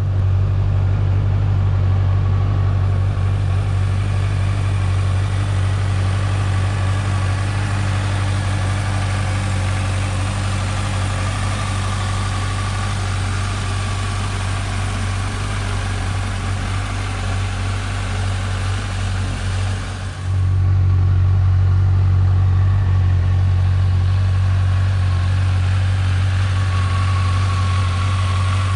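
Honda CBF1000 inline-four engine idling steadily through its exhaust, with a low, even hum. About twenty seconds in the sound dips briefly, then carries on slightly louder.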